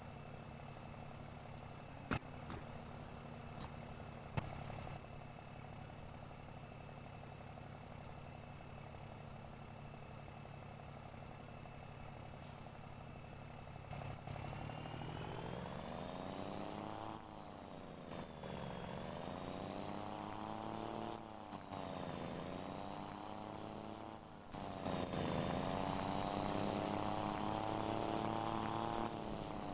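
Scania Super 540 truck engine with a straight-piped exhaust idling steadily, with two sharp clicks early and a brief air hiss about halfway. The truck then pulls away, the engine note rising and dropping back at each gear change, about four times, getting louder toward the end.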